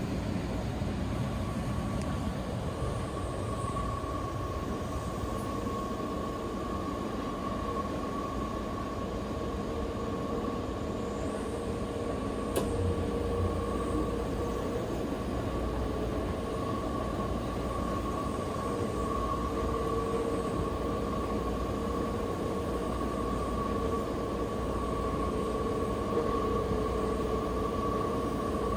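Seibu Chichibu Line electric train running at speed, heard from inside the passenger car: a continuous rumble of wheels on rails with a steady high whine over it. One sharp click about halfway through.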